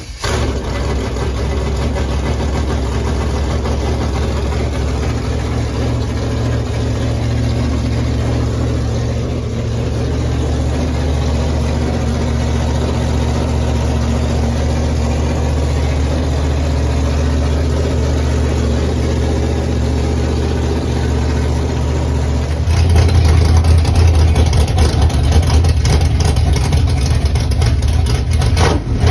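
Chevy small-block V8 running at a steady idle; about 23 s in its note gets louder and deeper.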